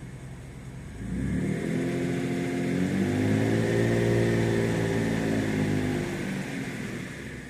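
1991 Mitsubishi 3000GT VR4's twin-turbo V6, still warming after a cold start, revved once from idle. About a second in the engine speed rises slowly, peaks midway and falls back to idle near the end.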